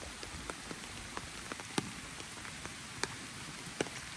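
Steady rain, with a few drops ticking sharply close by at irregular moments.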